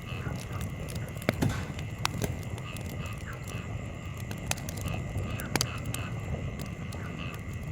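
Wood campfire burning, with scattered sharp crackles and pops, the loudest pair about a second and a half in, over a steady low rumble. A steady high tone and short repeated chirps run in the background.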